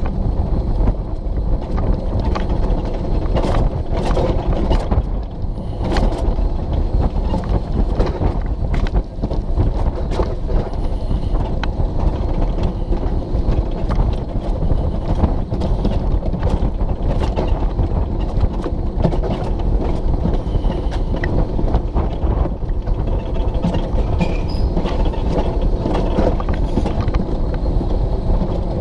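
Alpine coaster sled running down its stainless steel tube track: a continuous loud rumble and rattle from the wheels, with frequent clicks and knocks.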